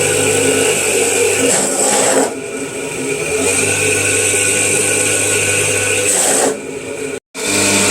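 A motor-driven feed-processing machine running steadily with a hum and a grinding noise. It eases off for about a second, twice, and the sound cuts off abruptly for a moment near the end.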